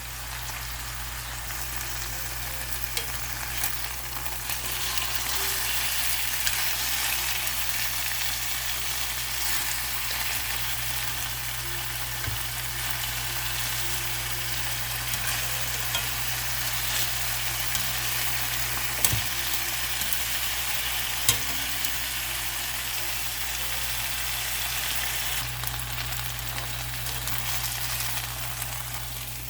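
Boneless, skinless chicken thighs browning in a hot pan, sizzling steadily over a low hum, with a few sharp clicks, the loudest about two-thirds of the way through.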